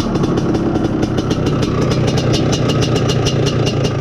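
IZH Planeta Sport's single-cylinder two-stroke engine idling steadily with a rapid, even exhaust beat while its carburetor mixture screw is backed out. The owner is trying to cure a lean mixture that makes the engine run poorly.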